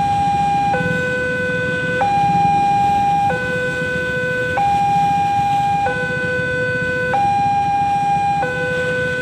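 Railway level crossing warning alarm sounding, an electronic signal that switches between two tones about every second and a quarter, over a low background rumble.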